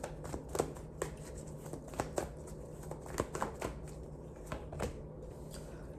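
Tarot cards being shuffled and handled: a run of soft, irregular flicks and clicks, several a second.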